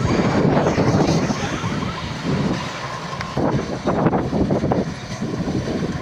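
Preet combine harvester running while cutting wheat: a dense mechanical din whose loudness swells and dips.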